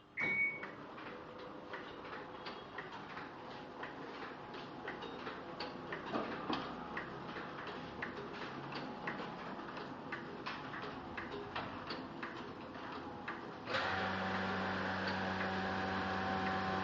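Komori Sprint 26 offset printing press running, its mechanism clicking steadily a few times a second over a low hum. About 14 seconds in, a louder steady machine hum with several held tones comes in and continues.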